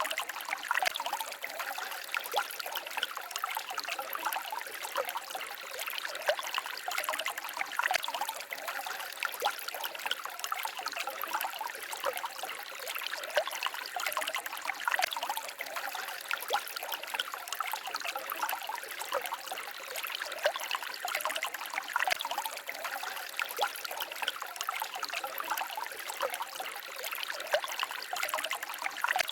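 A small stream babbling and trickling steadily, with a constant fine patter of splashes. The sound is bright and light, with no deep roar.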